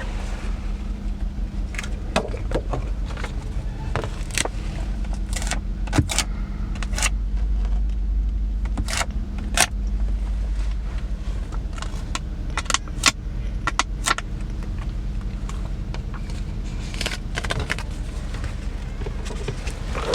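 Plastic screen-protector film being peeled and handled, giving scattered sharp crinkles and clicks, over a steady low hum of the car's cabin.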